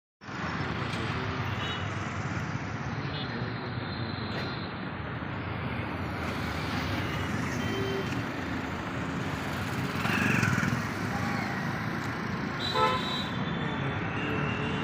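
Busy station ambience: a steady hubbub of voices and vehicle noise, with a short horn blast about thirteen seconds in.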